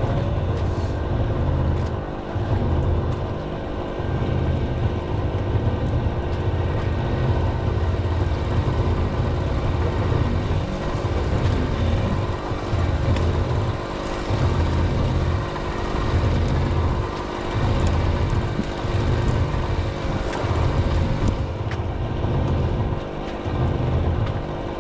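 Small engine on a fishing boat running steadily at an even pitch, over a low rumble that swells and dips irregularly.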